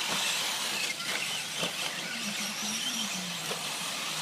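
Electric 4WD RC short course trucks racing, a steady high whine and hiss from their motors and tyres on the track. There are a few sharp knocks.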